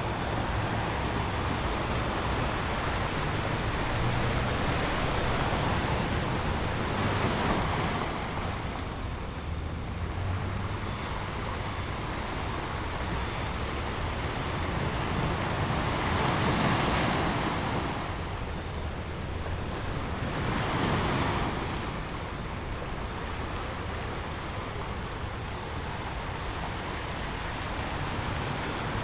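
Ocean surf: a steady wash of waves that swells louder as waves break, about seven, seventeen and twenty-one seconds in.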